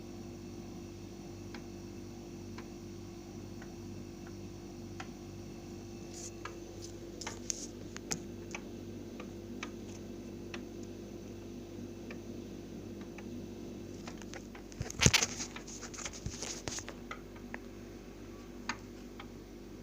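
BEKO CNMV 5335EA0 W refrigerator humming steadily, with scattered sharp clicks and ticks and a loud flurry of clicks about 15 seconds in. This is the constant clicking and humming its owner complains of.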